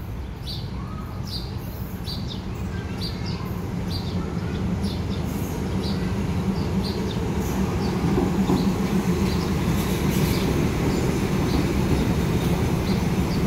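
Diesel passenger train pulling into a station, its low engine rumble growing steadily louder as it comes alongside. A bird chirps about twice a second over it.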